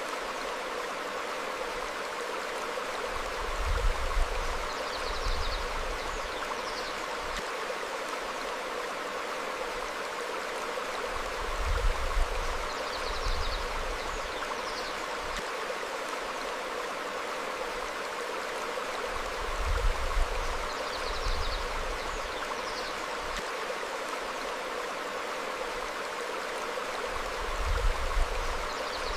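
Small stream flowing steadily over rocks, a constant rushing of water. About every eight seconds a brief low rumble swells up, the loudest moment, and a pair of short high bird chirps follows; the same pattern repeats four times, like a loop.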